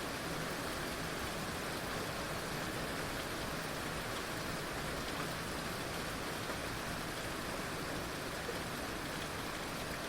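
Heavy rain falling steadily, an even hiss with the odd drop ticking out faintly above it.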